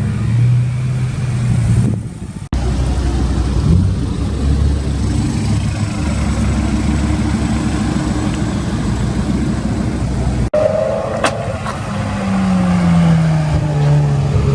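Car engines running loudly, with a low steady drone. Near the end one engine's note falls steadily, as a car slows or passes by. The sound cuts out briefly twice.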